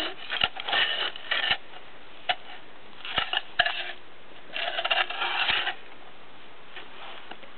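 Excavator arm and bucket being worked by hand, rattling and clattering in three bursts with sharp clicks between them, and no engine running.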